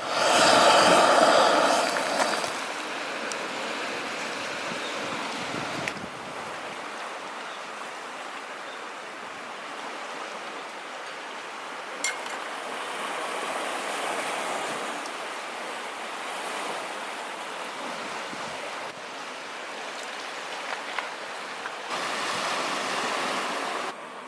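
Strong wind blowing, a steady rushing noise, loudest in the first couple of seconds and stepping abruptly louder or quieter a few times.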